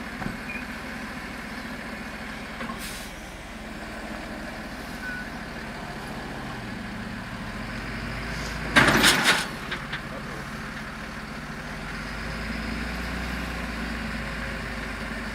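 Heavy truck engine idling steadily, with a short loud burst of hissing air about nine seconds in.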